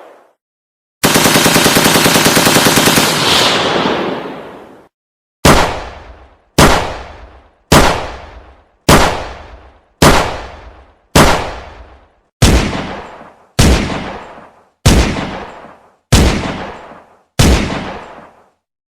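Gunfire sound effect: a burst of rapid machine-gun fire lasting about four seconds, then a dozen single shots a little over a second apart, each dying away before the next.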